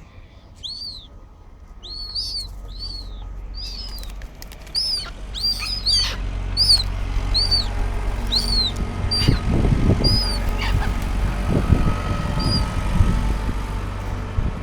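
A bird chirping over and over in short, high, arched chirps, a dozen or more spread through most of the clip and thinning out near the end. A low rumble underneath grows louder about halfway through.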